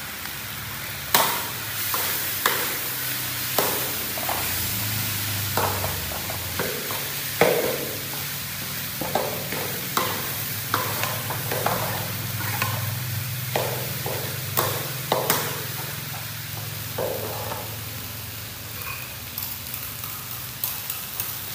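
Vegetables frying in a steel wok on a portable gas stove with a steady sizzle, broken by irregular sharp clicks and scrapes of a metal spatula stirring against the wok.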